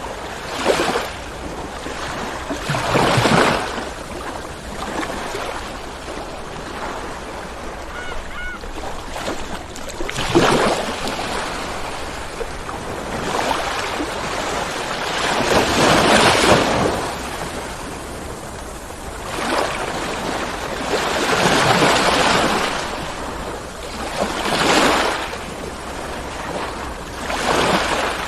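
Ocean waves breaking and washing on the shore, a loud surge of surf every three to six seconds over a steady hiss of water. A brief faint call sounds about eight seconds in.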